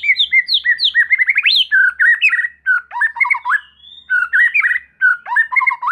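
White-rumped shama (murai batu) singing a fast, varied song of whistled notes and slurred glides, with a few short breaks. It is the kind of song played as a lure to rouse rival shamas into singing.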